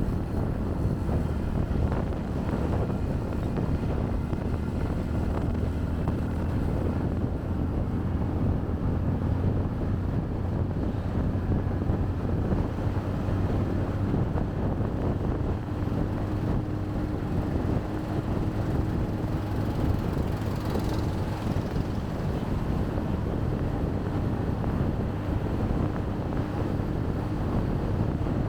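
Motorcycle running steadily on the road, with wind noise on the microphone and street traffic around it.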